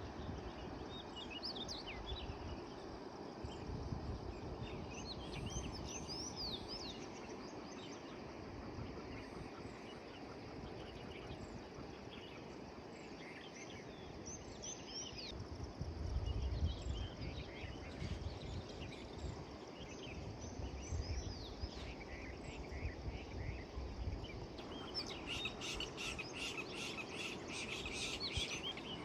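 Birds chirping and calling in short repeated notes over a steady outdoor background hiss, with occasional low rumbles. In the last few seconds the chirping becomes denser and faster.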